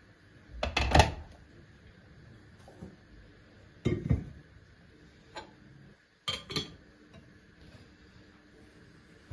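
Dishes knocking and clinking as they are handled and set down, in four separate clusters, the loudest about a second in.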